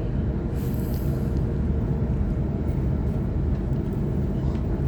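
Steady rumble inside a Waratah electric train running along the line: wheels on the rails and the train's running gear, with a low even hum underneath.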